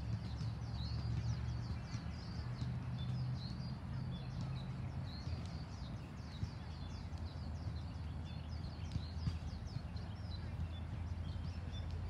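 Many small birds chirping in quick, short, high calls over a steady low rumble.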